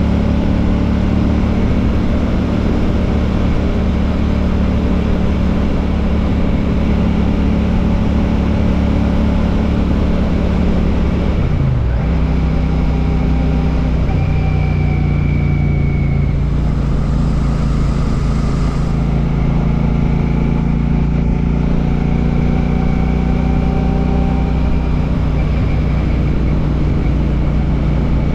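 Royal Enfield Classic 650's parallel-twin engine running under way through an aftermarket Ngage exhaust. The engine note is steady, dips briefly about twelve seconds in, then runs steady again.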